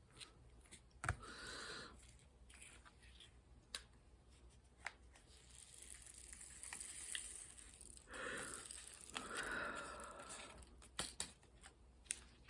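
Quiet close handling sounds while working on a craft canvas: scattered light clicks and taps, with a few brief soft rustles.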